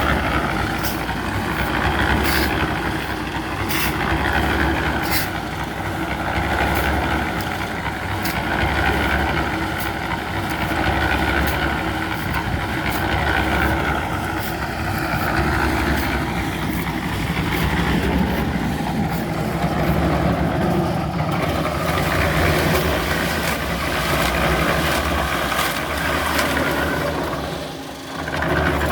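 An engine running steadily with a pulsing low hum, and scattered sharp clicks and knocks over it. The level dips briefly near the end.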